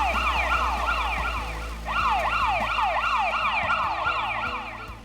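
Police car siren sounding in a fast, repeating sweep of about three cycles a second. It breaks off briefly near two seconds in, then starts again and fades near the end.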